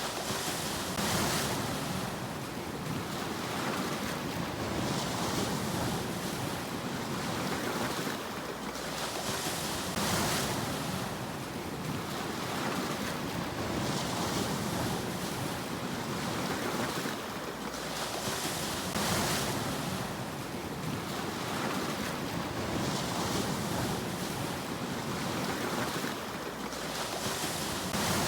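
Sea waves breaking and washing in, one surge of surf hiss about every four to five seconds over a steady rush of water.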